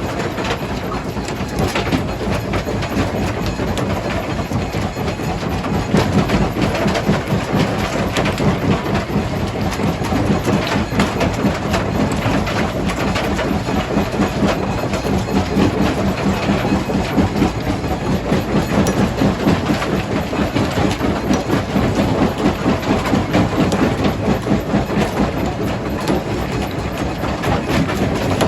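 Rock crusher running under load: a steady, heavy mechanical rumble with a rapid, uneven pulse and scattered sharp knocks.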